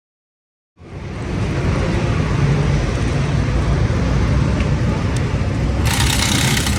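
Motor vehicle running: a loud, steady low rumble that cuts in abruptly about a second in, with a brief burst of hiss near the end.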